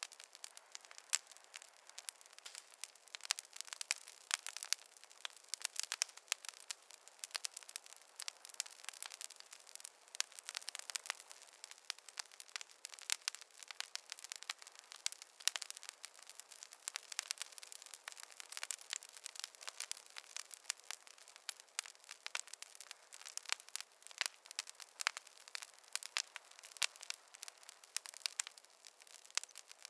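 Wood fire crackling: a dense run of sharp, irregular pops and snaps from burning logs.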